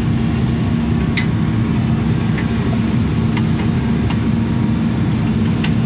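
Case CX80C mini excavator's diesel engine running steadily while digging and shaping dirt, with scattered short clicks and scrapes over the engine hum.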